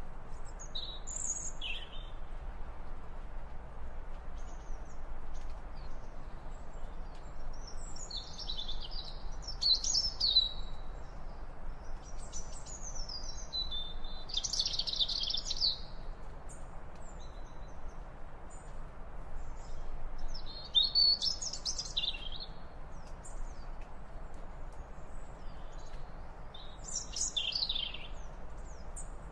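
Birds chirping in short, high-pitched phrases every few seconds, over a steady low background hiss.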